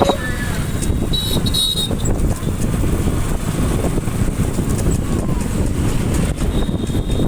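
Ride noise from a moving motorcycle: wind buffeting the microphone over the rumble of road and engine.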